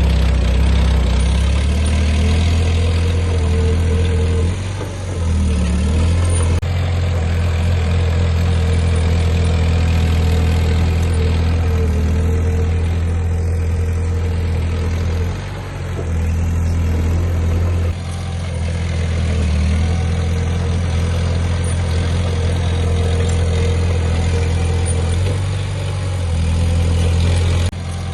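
Diesel engine of heavy earthmoving machinery running steadily with a deep hum, dipping briefly in level a few times.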